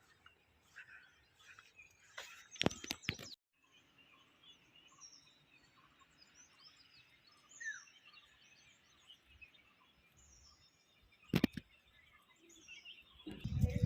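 Faint outdoor ambience with small birds chirping now and then. A few sharp clicks come about three seconds in and another near the end.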